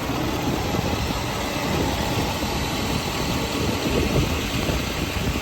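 Ford F-350's 6.7-liter turbo diesel V8 idling steadily.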